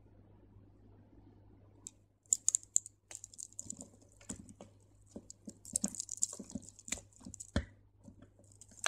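Crystal beads clicking against each other and thread rustling and scraping through them as they are handled, a quick irregular run of light clicks beginning about two seconds in.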